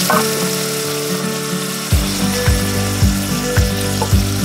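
Bacon and garlic sizzling in a stainless steel pot as they are stirred with a wooden spatula. Background music runs underneath, and about two seconds in a low beat enters, thumping just under twice a second.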